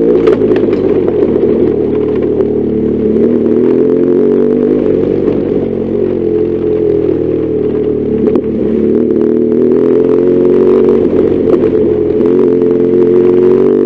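BMW R1200GS Adventure's boxer-twin engine running under way, its note falling and climbing again several times as the throttle changes.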